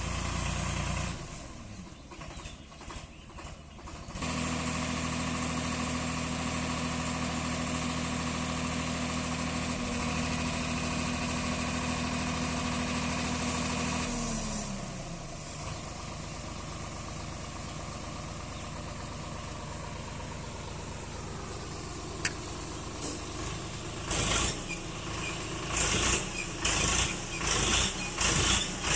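Swaraj 744 FE tractor's diesel engine running, held at steady raised revs for about ten seconds, then the revs fall back to a quieter idle. Near the end, a string of short noisy bursts joins the engine.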